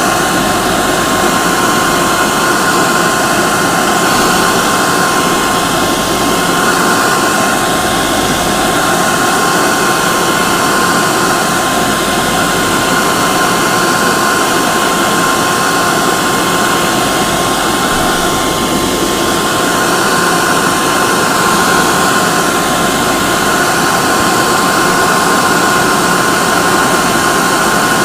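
Hair dryer running steadily, a loud even rush of air with a constant motor whine.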